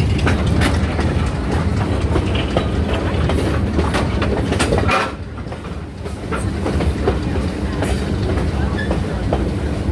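Railroad car rolling along the track: a steady low rumble with irregular sharp clicks of the wheels over rail joints. The level dips briefly about five seconds in.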